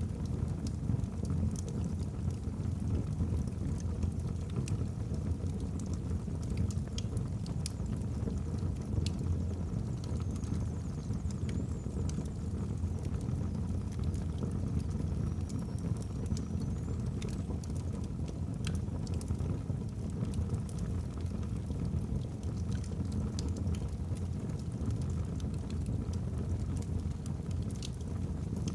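Wood fire burning in a fireplace: a steady low roar of the flames with scattered sharp crackles and pops from the logs, and a faint high whistling twice.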